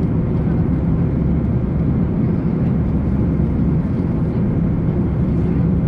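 Steady in-flight cabin noise of an Airbus A340-300: an even, deep rush of airflow and engine noise, unchanging throughout.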